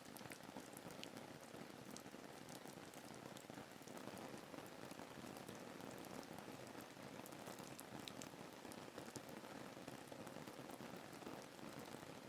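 Faint, steady rain ambience: a soft even wash of rainfall with scattered drops ticking through it.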